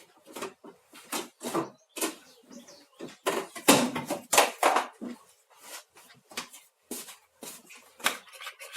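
A spoon stirring and scraping cake batter in a bowl to mix in pistachio-green colouring, in quick irregular strokes that are loudest in the middle.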